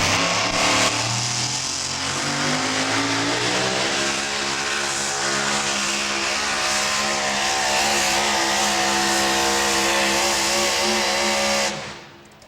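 Super modified four-wheel-drive pulling truck's engine revving up over the first few seconds and then held at a high, steady pitch under full load. It cuts off sharply near the end.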